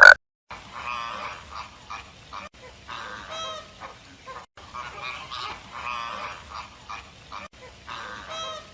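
Waterfowl calling, a string of short honking calls repeating every half second or so.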